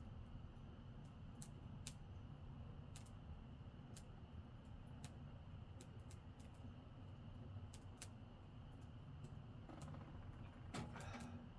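Wood campfire crackling: sharp, irregular snaps and pops of burning wood, about one a second, over a low steady rumble, with a denser patch of crackle near the end.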